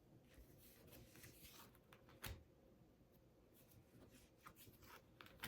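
Near silence: room tone with a few faint soft clicks, one about two seconds in and another near the end.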